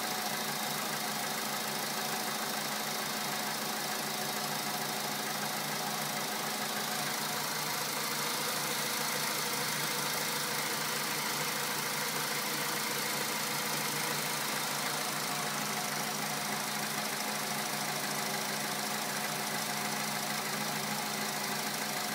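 Volkswagen Polo sedan's four-cylinder petrol engine idling steadily a few minutes after a cold start. The cold-start knock has by now all but died away as the engine warms.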